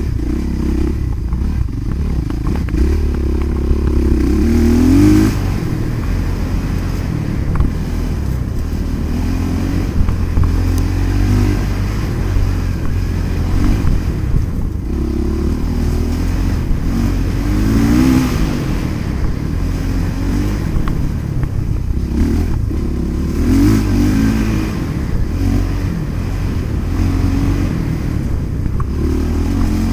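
Motocross dirt bike engines revving, the pitch rising and dropping again and again as the throttle opens and closes, over a steady low rumble.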